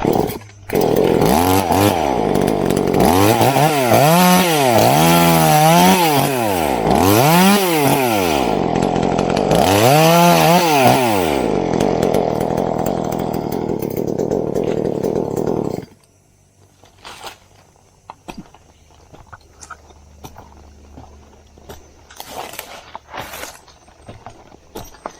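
Two-stroke chainsaw running and cutting into coconut palm wood, its engine pitch rising and falling over and over, every second or two, then cutting off suddenly about sixteen seconds in. Afterwards only faint scattered knocks and clicks.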